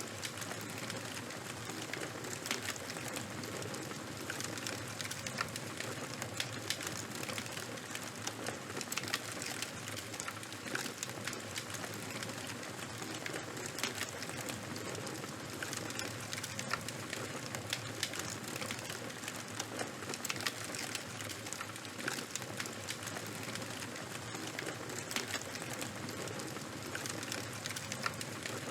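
Charcoal and bonfire burning: a steady hiss with frequent, irregular crackling snaps and pops.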